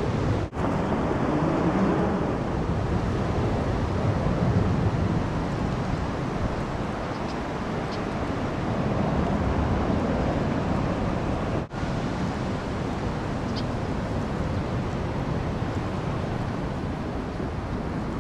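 Steady outdoor background noise: wind rumbling on the microphone mixed with a hum like distant traffic. It cuts out briefly twice, about half a second in and near twelve seconds.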